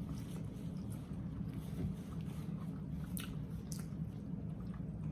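People chewing food close to the microphone, with a few short clicks about two, three and four seconds in, over a steady low hum.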